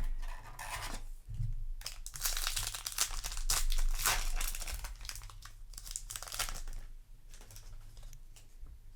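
Foil Yu-Gi-Oh! booster pack wrapper being crinkled and torn open, a dense run of crackling rustles that is loudest in the middle and thins out toward the end.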